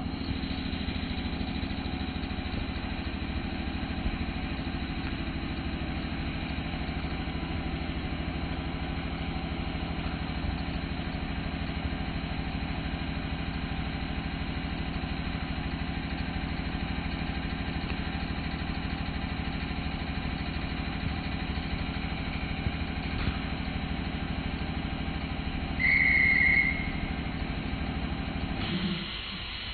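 Steady mechanical hum of machinery on a train standing in the station, starting and cutting off abruptly. A short, loud high tone about a second long sounds near the end.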